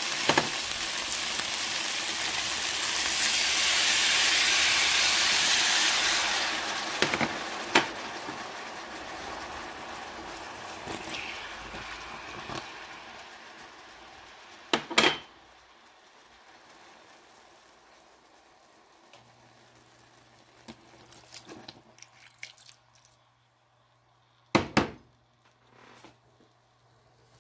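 Chicken wings sizzling in hot oil in a stainless steel wok. The sizzle swells a few seconds in, then dies away as soy sauce goes into the pan. A few sharp knocks sound against the pan.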